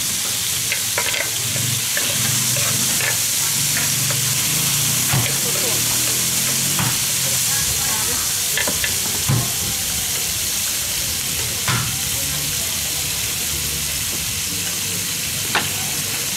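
Squid frying in butter on a hot griddle: a steady sizzle, with metal tongs clicking against the pan a few times as the pieces are turned.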